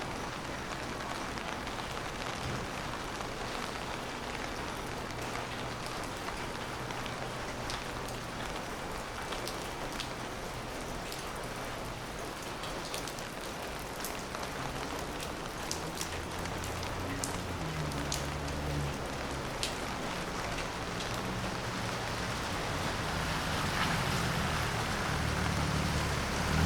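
Steady rain falling on a wet street, with scattered sharp drip clicks. Late on, a low vehicle engine grows louder as it draws closer.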